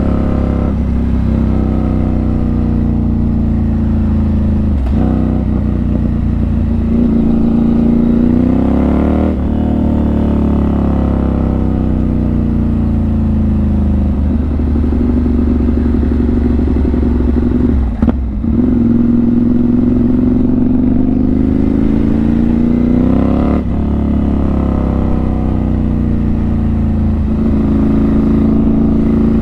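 Motorcycle engine running under way, heard from the rider's helmet, its pitch climbing and falling with speed and breaking sharply at several gear changes.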